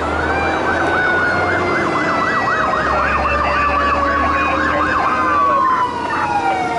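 Fire engine siren in yelp mode, its pitch warbling up and down about three times a second. Near the end it changes to a slow wail falling in pitch, over the low, steady rumble of the truck's engine.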